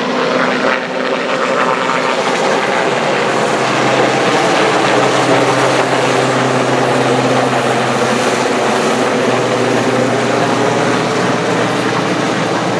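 Helicopter in flight after lift-off, its rotor and engine running steadily and loudly.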